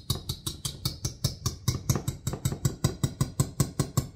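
A kitchen utensil clacking rapidly and evenly against a bowl, about six or seven strikes a second, as when beating or mixing by hand.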